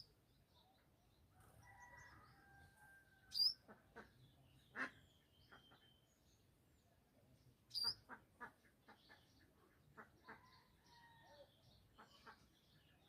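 Birds calling: two loud, sharp, high calls a few seconds apart, among scattered shorter notes and clicks.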